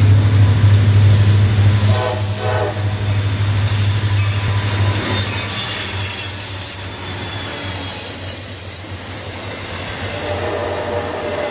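Recorded railroad sounds of a train running: a steady low rumble that eases off after about five seconds, with high squeals in the middle and a held mid-pitched tone near the end.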